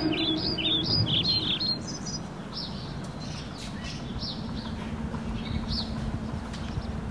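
Small birds chirping: a quick run of short high chirps in the first two seconds, then scattered calls, over a steady background hiss.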